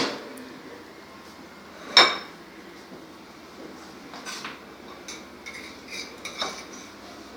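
Dishes and cutlery clinking: one sharp clink about two seconds in, then several lighter taps and clicks.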